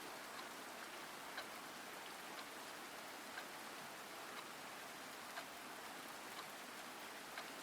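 Steady rain, a soft even hiss, with a faint sharp click about once a second.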